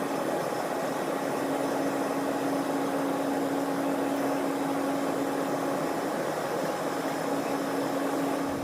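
Steady airliner cabin noise: an even hum with a constant low tone, unchanging throughout.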